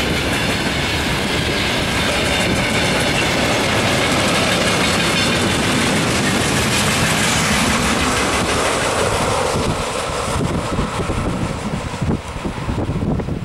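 Freight train's open wagons and tank cars rolling past on the rails: a steady noise of wheels running over the track. It fades about ten seconds in as the end of the train passes, leaving gusty wind on the microphone.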